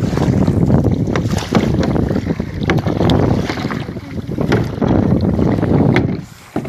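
Wind buffeting the microphone on a small boat at sea, a loud rumbling rush with crackles, mixed with water sounds around the boat; it drops away suddenly near the end.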